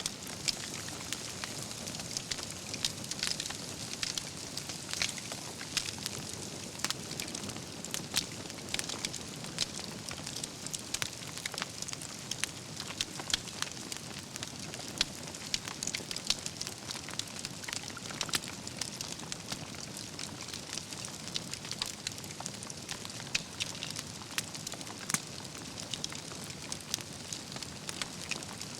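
Campfire of burning logs crackling steadily, with frequent sharp pops and snaps from the wood over a soft continuous hiss.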